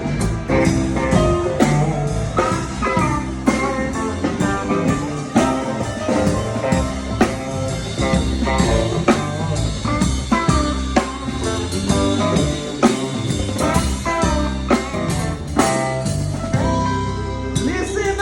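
Live band playing an instrumental passage: guitar over a drum kit keeping a steady beat.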